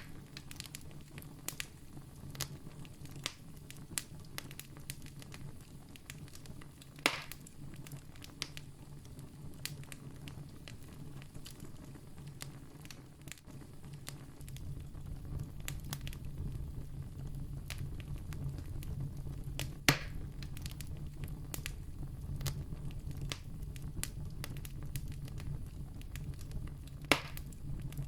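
Campfire crackling with scattered sharp pops, a few of them louder, over a low steady rumble that grows louder about halfway through.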